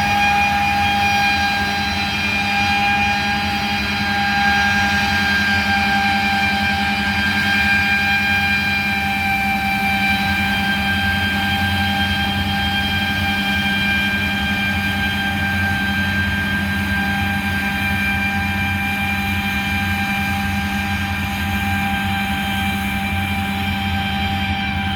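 Heavy farm machinery running steadily during harvest: a constant engine hum with a high, steady whine over it.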